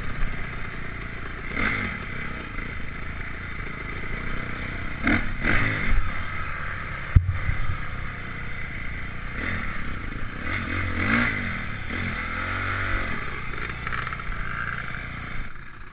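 Honda CRF450 single-cylinder four-stroke motocross engine heard from an onboard camera, its revs rising and falling repeatedly as the bike is ridden, with rattles and one sharp knock about seven seconds in.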